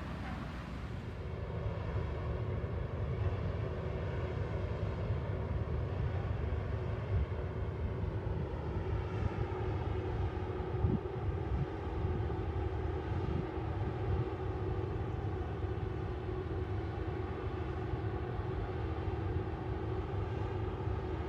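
Steady machinery drone: a low rumble with a constant hum over it, unchanging throughout.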